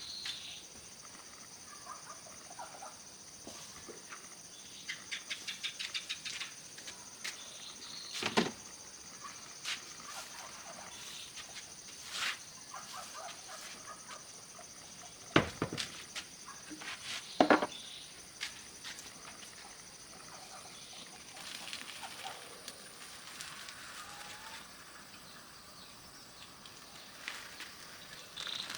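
Scattered knocks and taps, with a quick run of ticks and some rustling, over a steady high-pitched hum. The three loudest knocks come about a third of the way in and twice a little past halfway.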